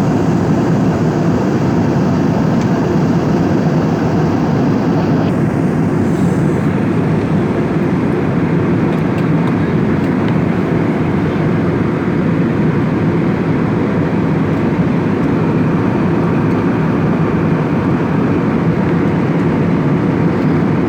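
Steady cabin noise of an airliner in flight: an even, loud rush with a deep drone that holds level throughout.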